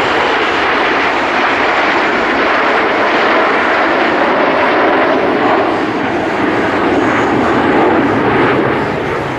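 Jet engine noise from PZL TS-11 Iskra jet trainers flying by, a loud steady rush that swells about eight seconds in and eases off near the end.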